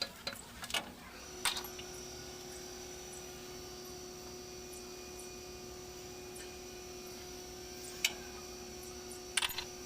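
A steady machine hum of several fixed pitches sets in about a second in. A few sharp clicks come at the start, and single knocks come near the end.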